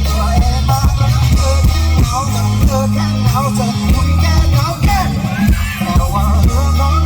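Live rock band playing loud: drum kit beat, sustained bass notes and electric guitar under a lead singer's voice.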